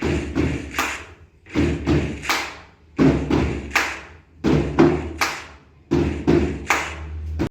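Loud percussion used as the example of a loud sound: heavy drum-like strikes in groups of three, a group about every one and a half seconds, over a low rumble. It cuts off abruptly near the end.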